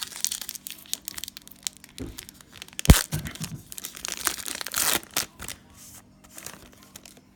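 Plastic cello-pack wrapper of trading cards being torn open and crinkled, with a sharp tap about three seconds in.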